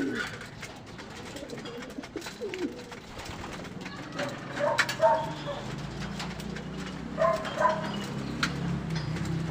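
Racing pigeons cooing in their loft, a low cooing coming in about halfway through, with scattered sharp clicks and taps.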